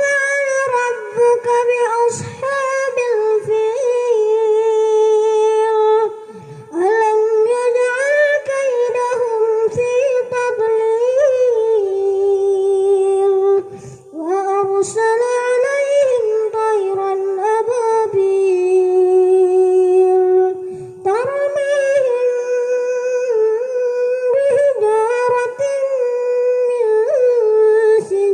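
A boy's voice reciting the Quran in a melodic, ornamented chant, holding long wavering notes in four long phrases with short breaths between them.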